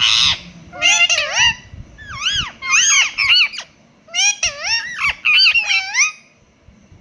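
Indian ringneck parrot mimicking a cat's meow: a string of high-pitched, rising-and-falling meow-like calls, opening with a short harsh screech.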